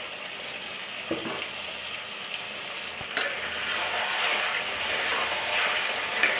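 Chicken pieces sizzling in a thick masala in a pot as a spatula stirs them, the meat nearly fried down. The sizzle grows louder about three seconds in, and there are sharp knocks about one and three seconds in.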